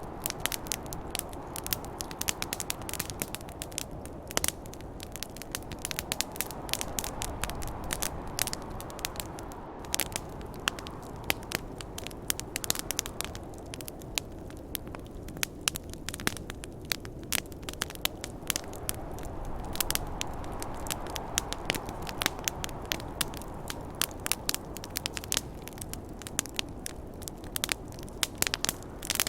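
Campfire crackling with frequent sharp pops and snaps, over a steady rush of snowstorm wind that swells and eases twice.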